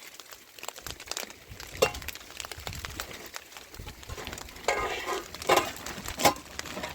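A few sharp clinks and knocks of hard objects being handled: one just under two seconds in, then three louder ones in quick succession near the end.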